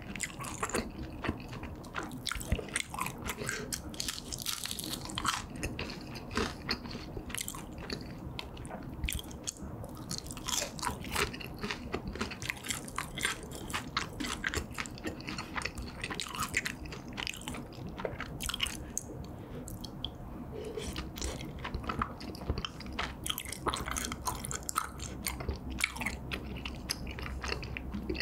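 Close-miked eating: chewing and crunching of fried food, with many irregular crisp bites.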